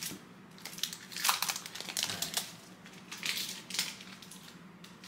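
Foil trading-card pack wrapper crinkling in gloved hands as it is handled and opened, in several irregular rustling bursts.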